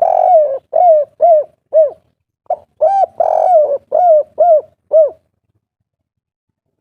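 Spotted dove cooing, two phrases a little over two seconds apart, each a longer coo followed by three short 'kuk' notes: the 'kuk 3' song type.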